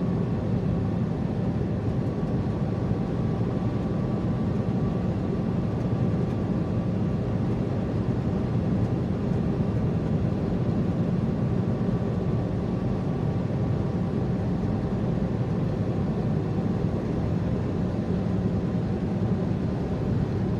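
Semi-truck engine and tyre noise heard inside the cab at a steady speed: an even low drone with a faint steady high tone above it.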